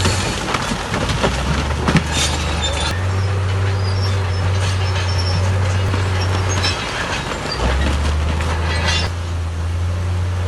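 Crawler bulldozer's diesel engine working under load, its note stepping up and down several times, with squealing and clanking from the steel tracks and a sharp knock about two seconds in.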